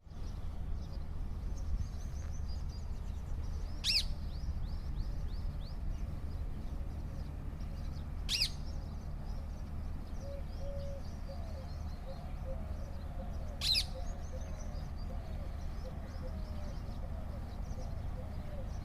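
A parrot giving three loud, short, shrill calls several seconds apart, over a steady background of quieter high chirps and twitters from other birds.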